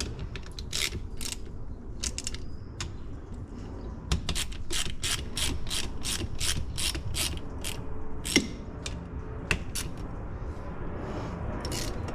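Hand ratchet wrench clicking as bolts on a pressure washer pump are run down. The clicks come irregularly at first, then settle into a steady run of about three a second.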